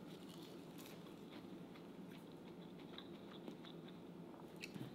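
Faint chewing of a piece of crispy flour-coated fried white bass, with scattered soft crunches.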